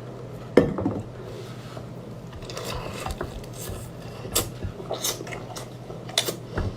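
Rasping, scraping handling sounds with a sharp knock about half a second in and scattered clicks and taps after it.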